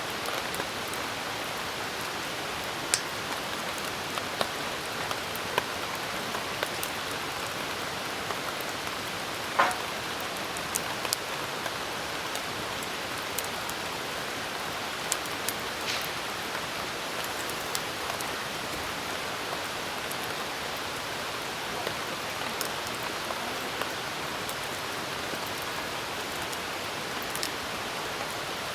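Steady rain falling, an even hiss throughout, with scattered sharp ticks and pops, the loudest about ten seconds in.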